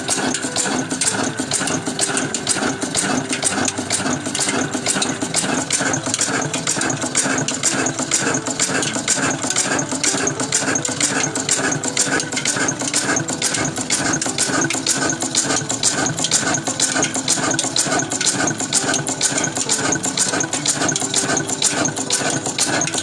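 Engine of an old water-lifting pump running steadily at an even, rapid beat.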